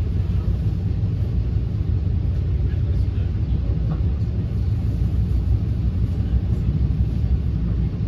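Steady low rumble of an NJ Transit Multilevel coach running along the rails, heard from inside the passenger cabin, with a few faint clicks.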